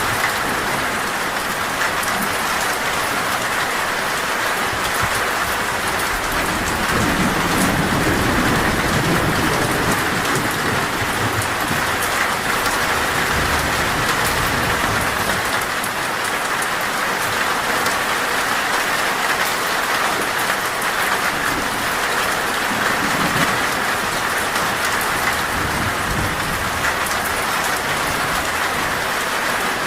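Heavy, steady rain drumming on a metal roof, a dense patter of drops. Thunder rumbles low twice, first about a quarter of the way in and again past the middle.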